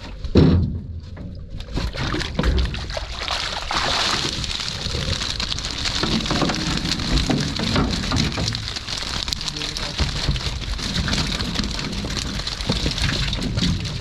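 Water splashing and pattering in many small drops, with a louder splash about half a second in.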